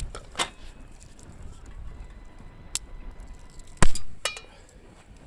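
Hard objects clinking and knocking as they are handled, a few light clicks and then one sharp knock about four seconds in, followed by a brief metallic ring.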